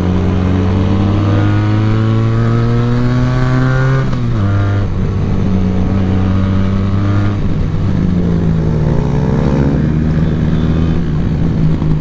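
Benelli TNT 300 parallel-twin motorcycle engine under way: the revs climb steadily for about four seconds, drop sharply at a gear change, run fairly steady, then climb again over the last few seconds.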